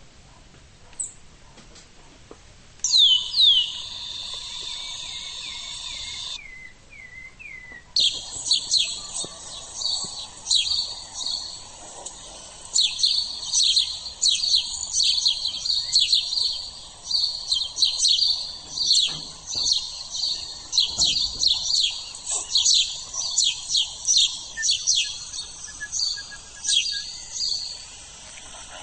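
Small birds chirping: about three seconds in, a high steady trill laced with chirps starts and cuts off suddenly a few seconds later. From about eight seconds in, a dense chorus of many quick, high chirps runs on.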